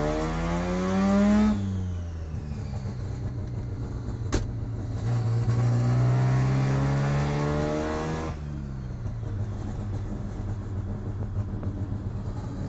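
Mazda RX-3's rotary engine heard from inside the cabin, revs climbing under acceleration and dropping about a second and a half in as it changes up, then climbing steadily again until the revs fall away about eight seconds in. A single sharp click sounds about four seconds in.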